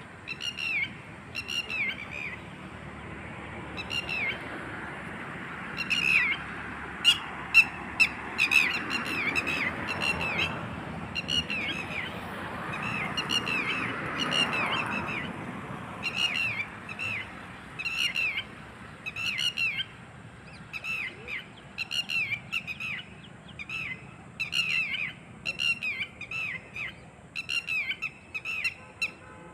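A bird giving short, harsh, downward-sliding calls over and over, one or two a second. A few sharp clicks come about a third of the way in, and a rushing noise swells and fades under the calls in the first half.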